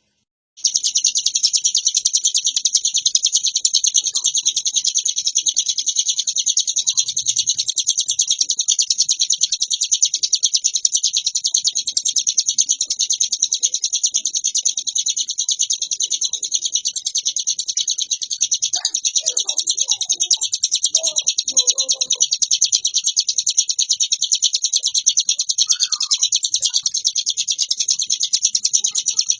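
Ciblek gunung (a mountain prinia) singing a continuous rapid, high-pitched chattering trill without a break, the fast machine-gun-like song bird keepers call ngebren. The song starts about half a second in.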